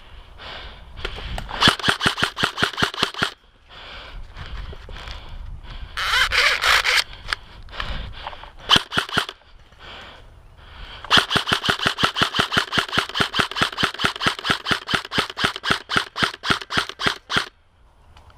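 Airsoft gun firing on full auto: a burst of about two seconds a little over a second in, a few shots around the middle, then one long burst of about six seconds near the end.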